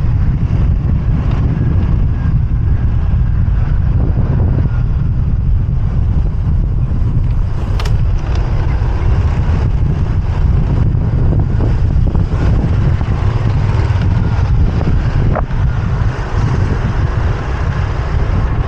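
Wind rushing over the microphone of a moving motorbike, over the steady drone of engines in city traffic. Two brief sharp clicks, about eight and fifteen seconds in.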